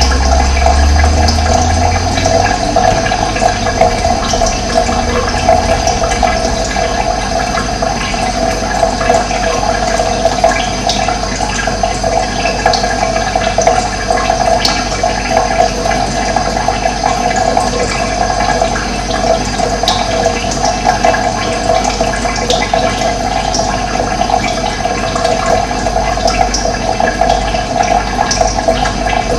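Steady running water, as of a stream or small cascade. A low rumble sits under it for the first couple of seconds.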